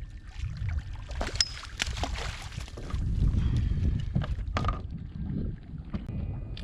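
Water splashing and sharp knocks against a fishing kayak as a fish is played and landed alongside, over low wind rumble on the microphone.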